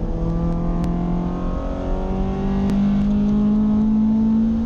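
Toyota Altezza 3S-GE Beams inline-four on individual throttle bodies, heard from inside the cabin while driving: the engine holds a steady high pitch, eases slightly about a second and a half in, then pulls with the revs rising steadily.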